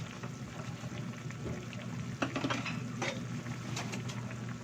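A pot of chicken, potato and carrot stew simmering and bubbling, with a steady low hum beneath and a few light clicks and taps as bell pepper is added.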